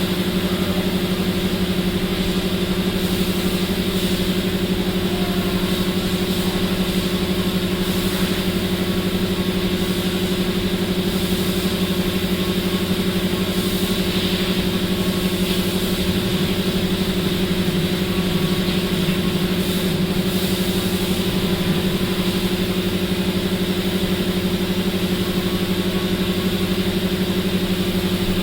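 A motor running steadily at a constant pitch, with a steady hiss above it.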